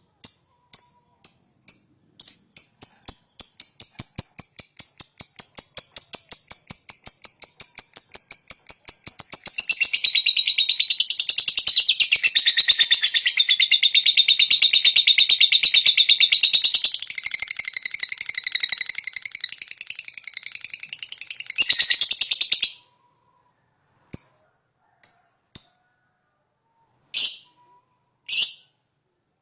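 Lovebird giving its 'ngetik' ticking call: sharp, high, single calls repeated, quickening into a rapid chip train. About ten seconds in, this runs into a long unbroken 'ngekek' chatter lasting some thirteen seconds. The chatter cuts off suddenly, followed by a few separate calls.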